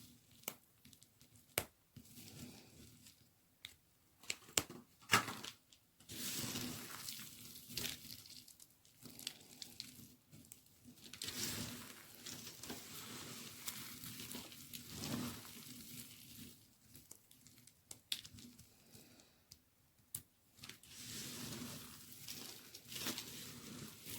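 A knife cutting through a bar of dry white baby soap: a run of scraping, crumbly strokes with a few sharp snaps and crunches as pieces break away.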